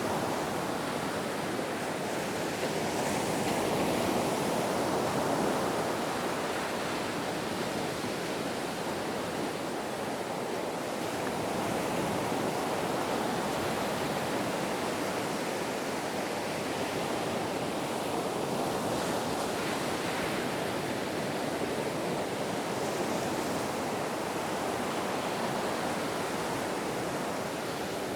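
Ocean waves breaking as a continuous surf wash, swelling and easing gently.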